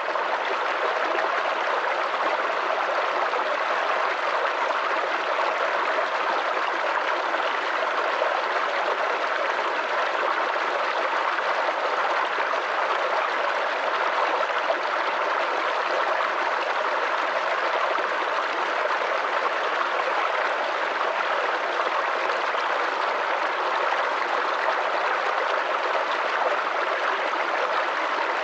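Water of a flowing stream running steadily, an even rush with no breaks or changes.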